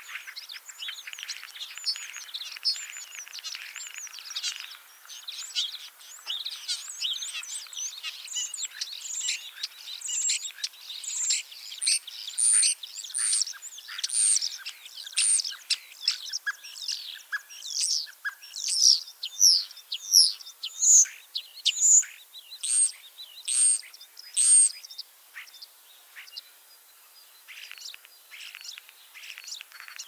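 Songbirds chirping and calling in quick, high-pitched notes. Through the middle there is a run of loud, clear notes repeated about once or twice a second, and the calling turns fainter near the end.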